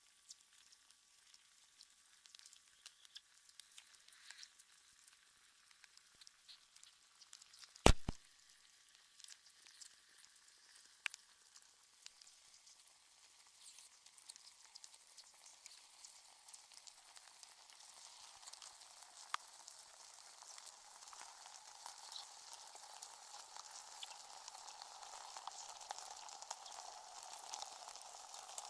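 Faint crackling hiss like static, with one sharp click about eight seconds in; the hiss grows louder through the second half.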